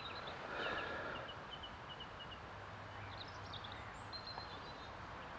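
Small birds chirping in woodland: a quick run of short repeated high notes in the first half, a few more chirps and a short whistle later, over faint steady outdoor background noise.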